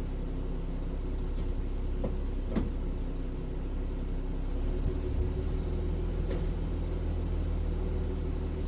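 1965 Ford F100 pickup's 300 straight-six engine idling steadily, with a couple of faint clicks a little over two seconds in.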